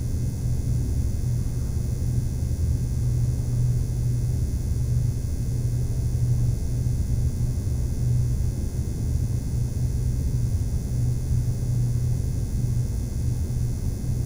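A steady low rumbling drone, with no beat and no singing.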